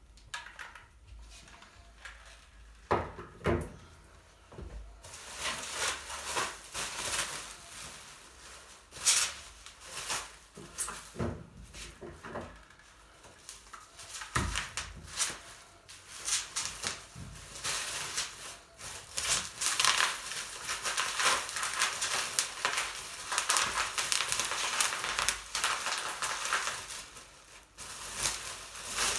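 Handling noise: a few knocks in the first seconds, then steady rustling and crinkling with scattered clatters.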